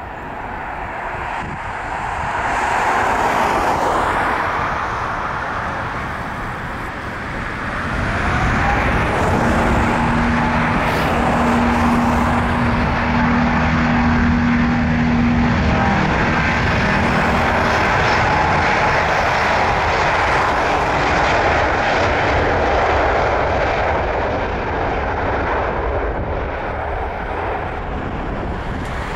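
Airbus A350-900 jet engines (two Rolls-Royce Trent XWB turbofans) running at takeoff power. The noise grows loud about eight seconds in, holds steady, and eases off near the end.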